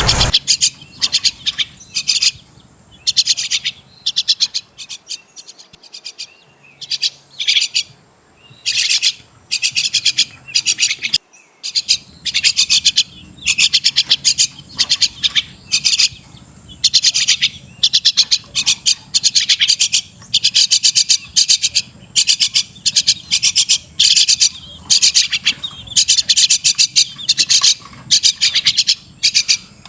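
Crested myna calling: runs of short, high notes coming in quick bursts, with a brief pause a little over a third of the way in.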